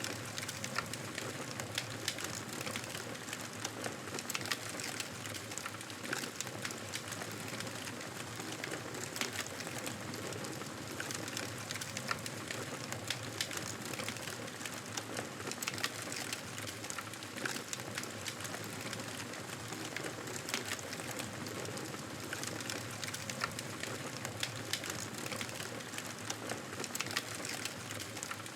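Wood fire crackling steadily in a fireplace, with many small sharp pops through a constant hiss.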